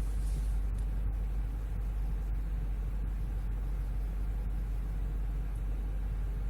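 Steady low rumble of a 2014 Range Rover Sport's supercharged V8 and its running gear, heard from inside the car.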